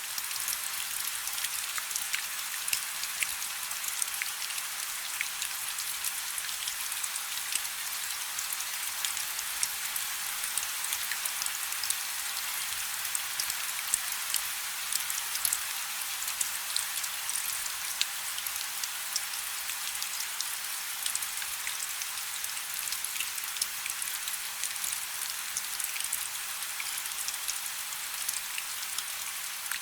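Light rain: a steady patter of many small drops, with no low rumble.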